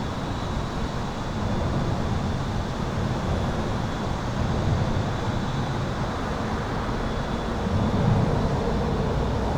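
Highway traffic heard from under an overpass: a steady, dense rumble of passing vehicles, swelling briefly about eight seconds in as a louder vehicle goes by. A thin, steady high-pitched tone runs underneath.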